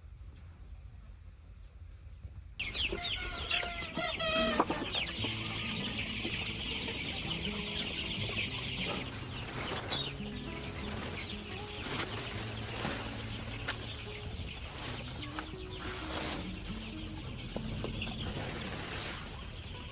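Chickens clucking, starting suddenly about two and a half seconds in after a quieter stretch, then continuing as many short overlapping calls.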